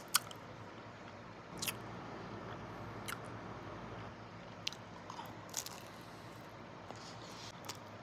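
Biting and chewing a chocolate-dipped banana coated in pistachios and almonds, the hard chocolate shell and nuts crunching in about half a dozen sharp cracks spread through the chewing.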